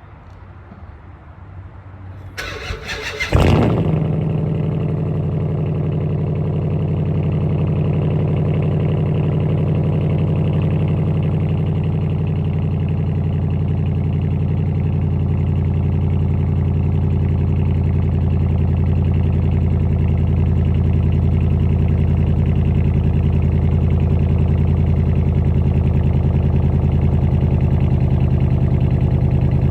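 Straight-piped 2014 Dodge Charger R/T's 5.7-litre HEMI V8 cold-starting: the starter cranks briefly about two seconds in, the engine catches with a sharp flare, then settles into a steady, loud idle.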